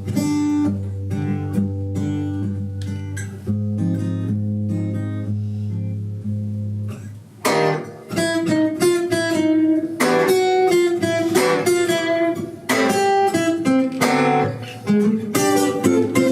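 Acoustic guitar music: sparse picked notes over a held low bass for about seven seconds, then fuller plucked and strummed chords.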